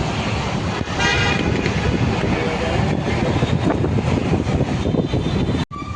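Steady road traffic noise, with a vehicle horn honking once, briefly, about a second in. The sound drops out for an instant near the end.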